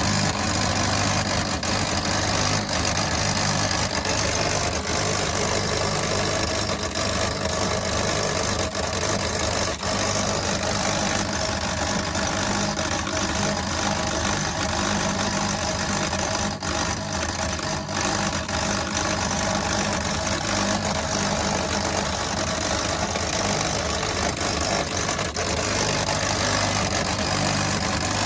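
Steady electrical hum and buzz from an electric heating control unit, a constant low hum with a hiss above it that does not change.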